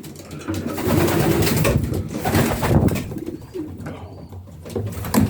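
Racing pigeon cocks cooing in a loft, low and rolling, easing off in the second half.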